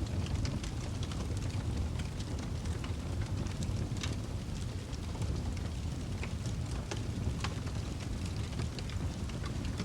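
Wood fire burning in a fireplace: a steady low rumble of flames with irregular crackles and small pops throughout.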